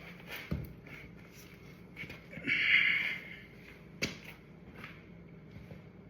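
Light clicks and knocks of tools and parts being handled, with one short rushing, rubbing noise about two and a half seconds in.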